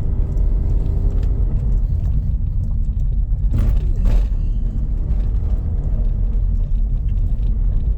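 Car driving along a road: steady low rumble of engine and road noise, with a brief louder swell about three and a half seconds in.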